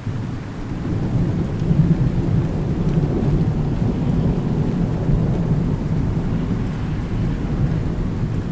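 Thunderstorm: a long, low rumble of thunder builds about a second in and holds, over steady rain.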